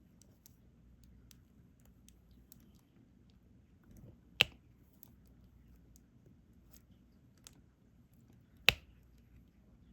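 Faint plastic ticks of diamond-painting work: resin drills being picked up and pressed onto the canvas with a stylus, with two sharp clicks about four seconds apart.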